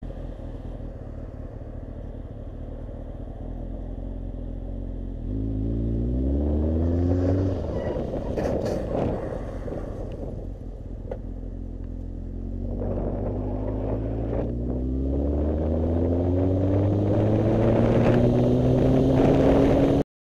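Yamaha FZ1 motorcycle's inline-four engine running, then accelerating with its note rising in pitch about five seconds in. A few sharp clattering noises come around eight and a half seconds in, and the engine then accelerates again in a long rising pull until the sound cuts off suddenly.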